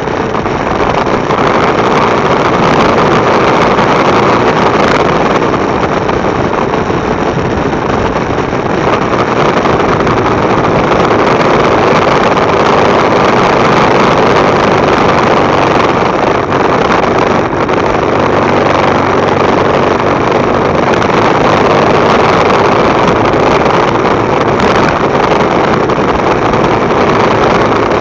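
Motorcycle engine running steadily while riding, heavily mixed with wind rushing over a bike-mounted camera's microphone.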